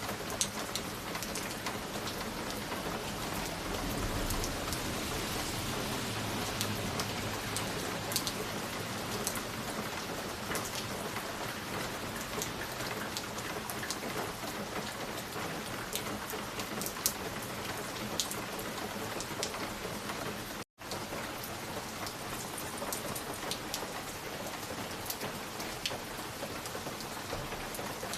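Steady dense hiss with scattered sharp crackles and ticks. It cuts out for a split second about three quarters of the way through.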